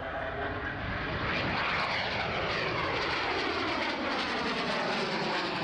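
A fixed-wing aircraft's engines flying past, swelling to a peak about two seconds in, then the engine pitch sliding steadily down as it moves away.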